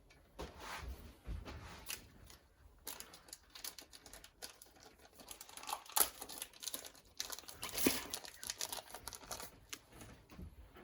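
Crinkling, rustling handling noise with many small clicks and taps; the sharpest clicks come about six and eight seconds in.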